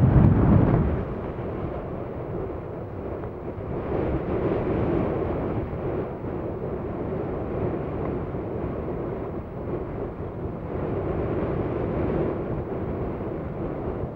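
Boeing 737 jet engines rumbling as the airliner climbs away after takeoff. The noise is loudest in the first second, then drops to a steady, lower roar that carries on.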